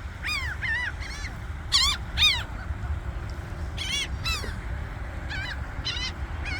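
Seagulls calling: about ten short, sharp cries in quick pairs and singles, over a steady low rumble.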